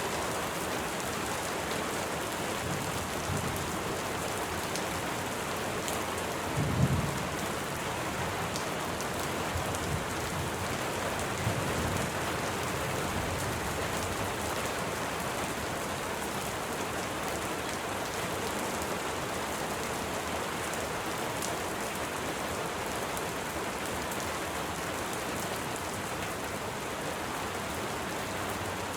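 Steady rain with a few low rumbles of thunder. The loudest rumble comes about seven seconds in, with weaker ones around three, ten and twelve seconds.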